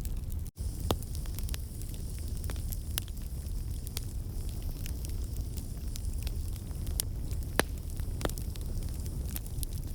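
Wood fire crackling in a fireplace: a steady low rumble of flames with irregular sharp pops and snaps, one louder pop near the end. The sound drops out for an instant about half a second in.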